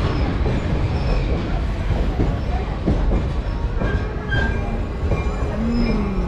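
Excursion train's passenger car rolling on the track: a steady low rumble, with short high wheel squeals now and then.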